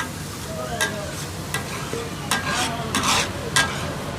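Brain masala sizzling on a flat iron tawa griddle, with metal spatulas clacking and scraping on the griddle about every three quarters of a second, in the takatak style of chopping and tossing.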